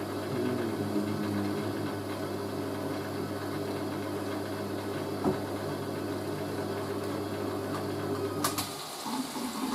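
Hoover A3060 washing machine's drain pump running with a steady grinding hum, then cutting off with a click near the end.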